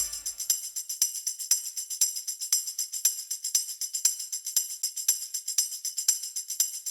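Background music reduced to a bare tambourine-like percussion pattern: quick, evenly spaced jingly hits, about four a second, with no bass or melody.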